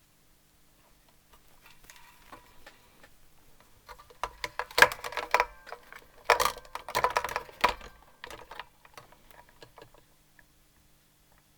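Quick clicking and rattling of small tools and metal parts being handled at a workbench, busiest in the middle, with brief metallic ringing among the clicks.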